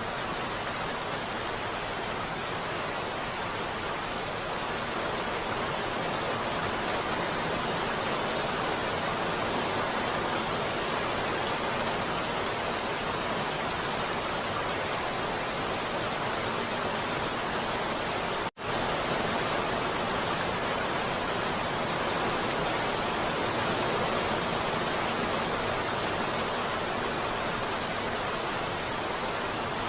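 Heavy rain falling steadily, an even rushing hiss with no separate drops standing out. It cuts out for a split second about two-thirds of the way through.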